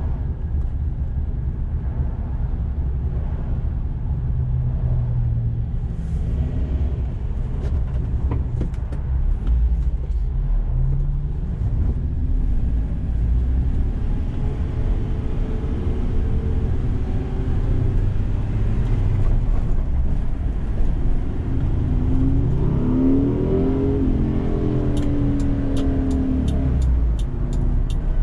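Toyota 2Y 1.8-litre gasoline four-cylinder engine of a Hiace truck under way, its note rising and falling with road speed and gear changes, over steady road noise. A run of quick ticks comes near the end.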